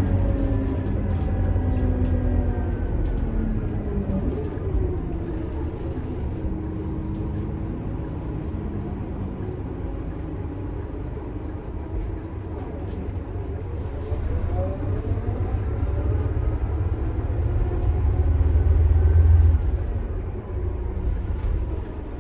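Scania bus's five-cylinder 9.3-litre turbo diesel running under way with a steady low rumble. Its revs fall over the first few seconds, then climb steadily to the loudest point about four-fifths of the way through and drop away.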